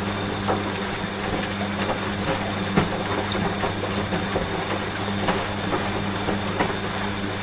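Washing machine running with a steady low hum, mixed with rain and scattered sharp drips and ticks.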